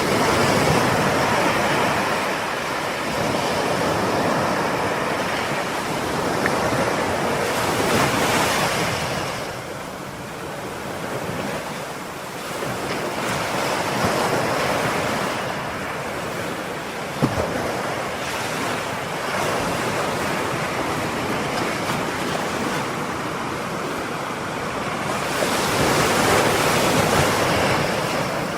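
Ocean surf: waves breaking and washing up the shore, the rush swelling and easing every several seconds. One sharp click partway through.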